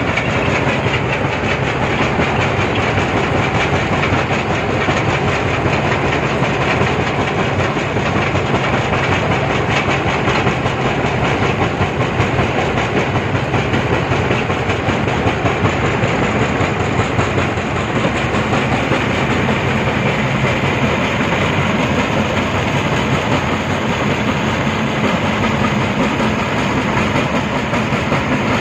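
Brick-breaking machine running and crushing brick, a loud steady rattling clatter that does not let up.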